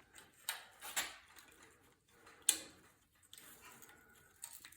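A few separate metal clicks and knocks as a quarter-inch steel plate is set on the disc frame and clamped in place, the sharpest about two and a half seconds in.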